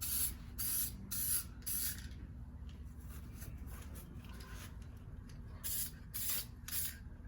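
Aerosol spray-paint can being sprayed in short hissing bursts: four quick sprays in the first two seconds, fainter ones after, and three more near the end.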